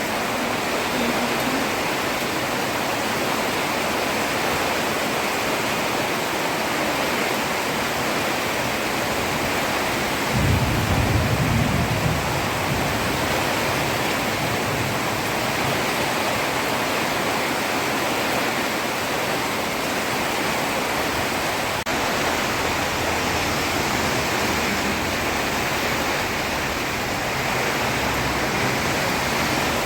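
Heavy rain falling steadily, a dense even hiss. About ten seconds in, a brief low rumble lasts a second or two.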